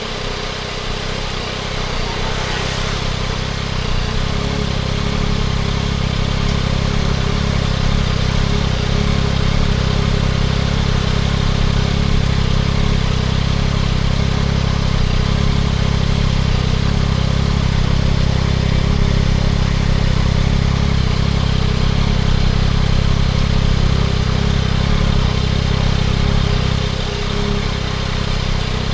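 2024 Yamaha MT-09 SP's three-cylinder engine running through a Spark triple-exit full exhaust. The sound builds over the first few seconds, holds steady, and eases briefly near the end, under a steady hiss.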